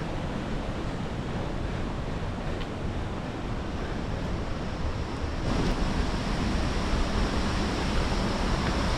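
Steady rush of a fast mountain river through a rocky gorge, a continuous roar of water that steps up in loudness about five and a half seconds in.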